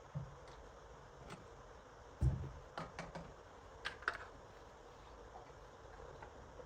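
Scattered light clicks and knocks of objects being handled, with one dull thump a little over two seconds in and a quick cluster of clicks just after it.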